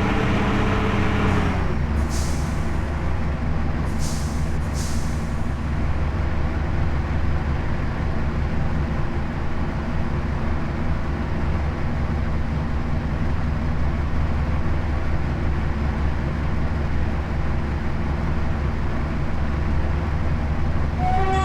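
2TE10U twin-section diesel locomotive's engine running steadily, its pitch dropping shortly after the start. Three short hisses of air from the brakes in the first five seconds.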